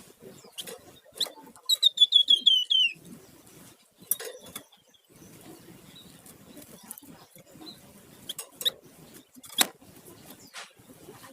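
Flamboyan songbird giving a fast trill of about ten notes about two seconds in, dipping in pitch at the end. Short chirps and sharp clicks follow, one loud click near the end, over faint rustling.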